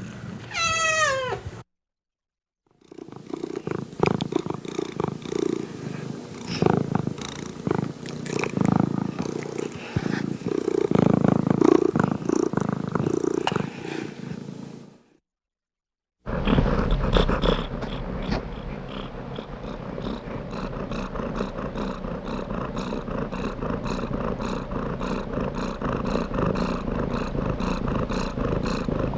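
Domestic cat sounds in three short clips: a single meow falling in pitch, then after a brief break about twelve seconds of loud, uneven purring close to the cat, then after another break a steady, rhythmic purr.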